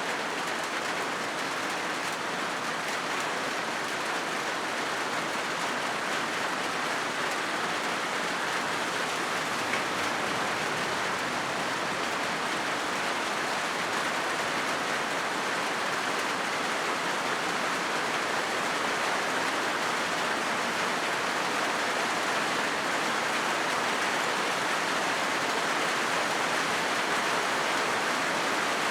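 Steady rain falling on a corrugated zinc roof, a dense, even patter without breaks, growing slightly louder toward the end.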